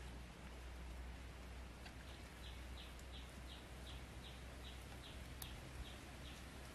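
A bird calling in a quick run of short, falling high notes, about three a second, starting about two seconds in, over a faint low rumble. Now and then a small crackle comes from the wood fire.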